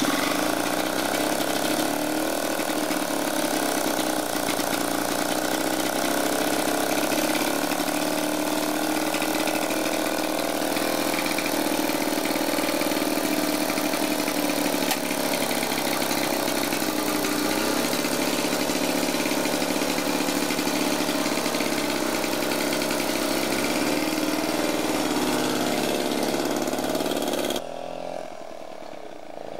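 1926 Dunelt motorcycle's double-diameter-piston two-stroke single running steadily on its stand, the revs shifting a little now and then. Near the end it cuts off abruptly to a fainter sound.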